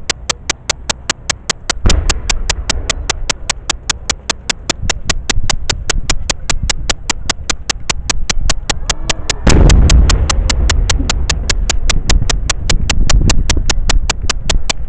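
Aerial firework shells bursting: a deep boom about two seconds in and a louder one about halfway through, followed by several seconds of low rumbling echo. A steady ticking of about four clicks a second runs under it.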